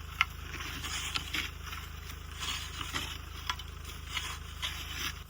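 Snow crunching in short irregular bursts, about two a second, over a low steady hum.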